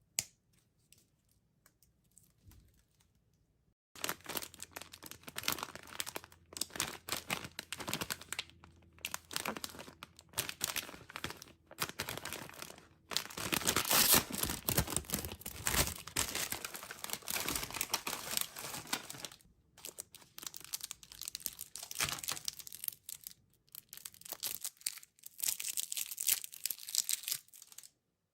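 Candy wrappers crinkling and tearing as packets are opened by hand, starting about four seconds in and going on with a few short pauses, loudest near the middle.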